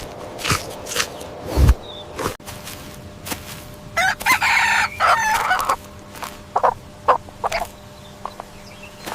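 A rooster crows once, about four seconds in, followed by a few short clucks. Short taps come before it in the first couple of seconds.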